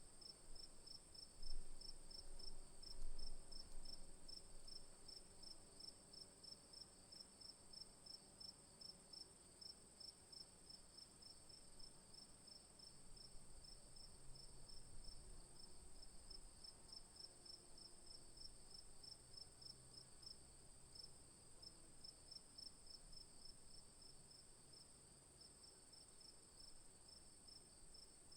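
Faint insects chirping steadily: one continuous high buzz and a slightly lower trill pulsing evenly at about four pulses a second. Two brief low thumps come about a second and a half and three seconds in.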